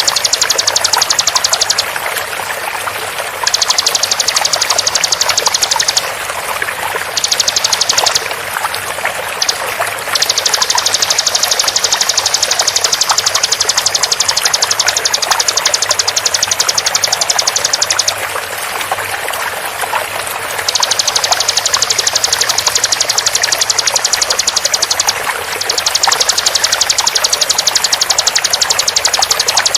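Bar-winged prinia (ciblek) giving long, very fast trills of rapidly repeated high notes, its 'tembakan' song. The trills come in runs of several seconds, broken by short pauses, over the steady rush of flowing water.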